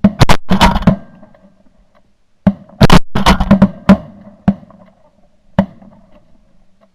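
A volley of shotgun shots from several hunters firing at incoming geese, very loud and rapid. A first burst comes in the first second, a denser run of shots follows about two and a half seconds in, and two single shots trail after.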